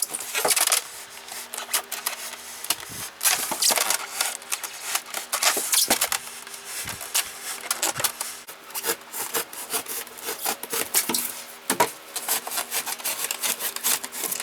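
A small utility knife sawing a round hole through a polystyrene foam box lid: a quick, irregular run of short scraping strokes.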